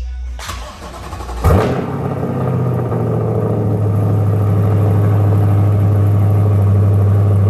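C8 Corvette V8 starting through newly fitted FabSpeed headers, catalytic converters and exhaust. The starter cranks briefly, the engine catches with a sharp rev flare about a second and a half in, then settles into a loud, steady, deep idle.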